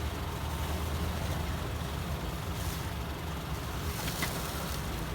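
A motor vehicle running: a steady low rumble with an even hiss over it, and a couple of faint brief ticks.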